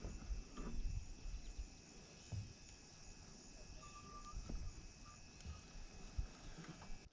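A steady, high-pitched insect chorus, with scattered low knocks and one short tone about four seconds in. The sound cuts off abruptly at the very end.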